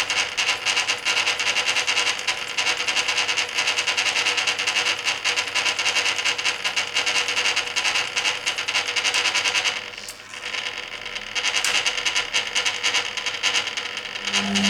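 Hoover Keymatic A3112 washing machine tumbling its load through rinse water in the stainless steel drum, heard from inside the drum: a busy rattling slosh of water and wet laundry. The sound dips briefly about ten seconds in, and a steady motor hum sets in just before the end.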